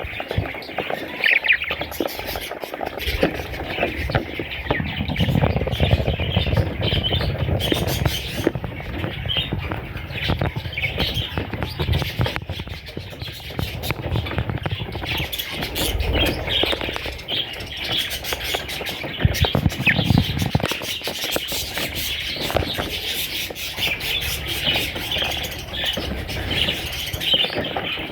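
Budgerigars chirping and chattering continuously, with low rumbling and scattered clicks underneath.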